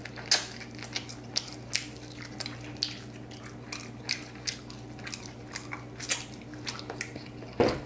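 Close-up eating of a sauce-glazed fried pork spare rib: biting and chewing, with irregular short crunches and mouth clicks two or three a second. A faint steady hum runs underneath.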